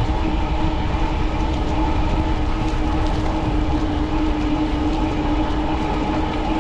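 Cyrusher Kommoda fat-tyre e-bike riding at speed on pavement: a steady drone from its tyres and drive, with wind rumbling on the microphone.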